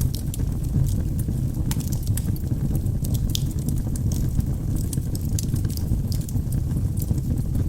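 Wood logs burning in a fireplace, crackling with frequent short, irregular pops over a steady low rumble of the fire.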